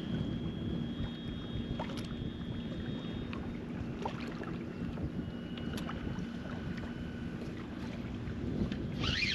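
Fishing kayak on the water: a steady low hum with wind and water noise, a few faint knocks, and a short burst of chirps near the end.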